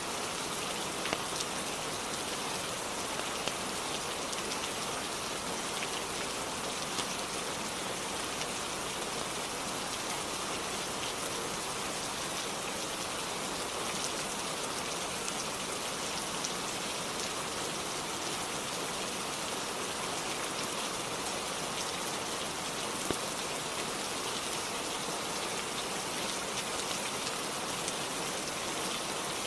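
Steady, heavy-sounding rainfall, a dense even hiss of drops, with a few brief sharp ticks scattered through it.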